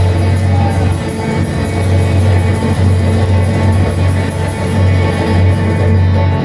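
Live band music with no singing: guitar over a loud, steady upright-bass line and drums keeping a regular cymbal beat.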